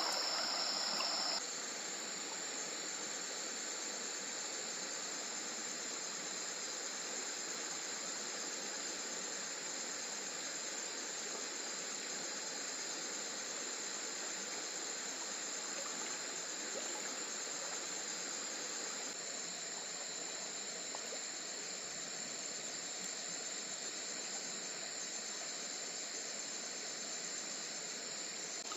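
A steady high-pitched insect chorus over the even hiss of running water. A louder layer of sound drops out about a second and a half in.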